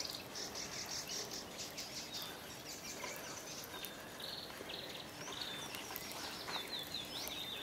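Birds chirping and singing, quiet, with many short high chirps and trills over a faint steady outdoor background.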